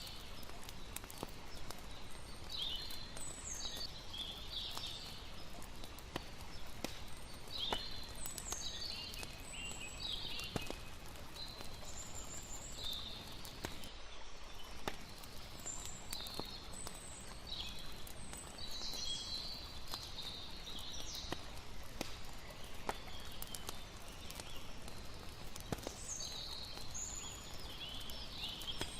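Layered nature ambience: birds chirping in short scattered calls over a steady rushing water background, with sharp pops of a crackling campfire dotted throughout.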